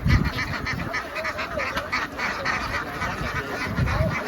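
A large flock of domestic ducks quacking in a dense, continuous, overlapping chorus. A low thump comes right at the start and another near the end.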